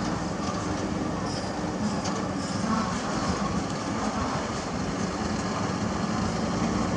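Heavy diesel engine running steadily, with a constant low drone.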